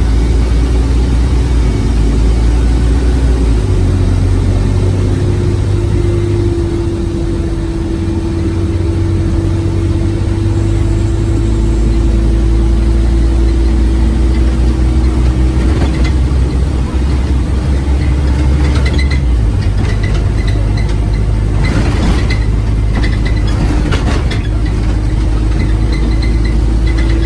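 Scania OmniCity city bus engine running under load, a loud steady rumble with a steady whine over it. The engine note shifts about four seconds in and again about two-thirds of the way through. Clicks and rattles come in over the second half.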